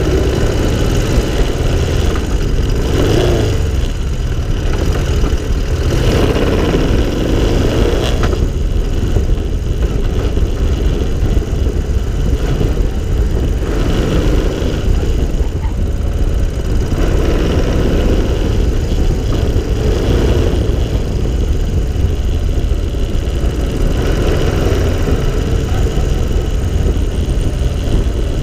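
Engine of an open three-wheeled cyclecar running steadily at road speed, heard on board with road and wind rumble, swelling and easing every few seconds.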